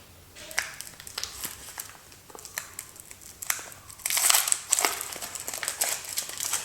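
Soap packaging being unwrapped by hand: the wrapper crinkles and crackles in scattered bits, then more densely and louder from about four seconds in.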